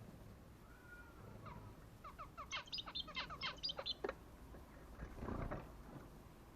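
Red mosaic canary singing a rapid, rattling trill of quick chirps, about nine notes a second for some two seconds, the machine-gun-like call its owner named it for. A short rustle follows near the end.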